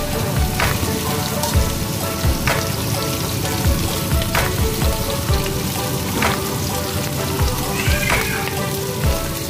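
Chicken and prawn satay skewers sizzling as they pan-fry in oil, with frequent sharp pops of spattering oil.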